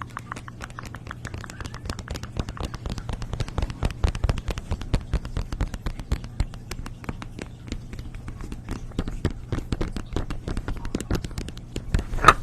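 ASMR crackling and tapping sounds: a dense run of quick, irregular clicks, many a second, over a steady low hum, with one sharper crack near the end.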